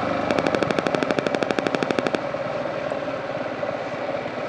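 A motorcycle exhaust firing in a rapid, even popping, about fourteen sharp pops a second for about two seconds, then cutting off suddenly, over a steady engine and road noise.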